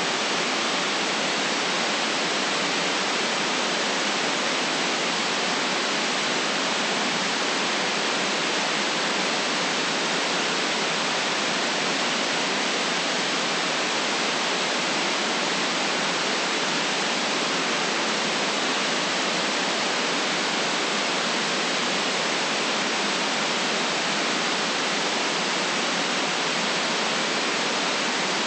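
Steady synthetic white noise: an even, unchanging hiss.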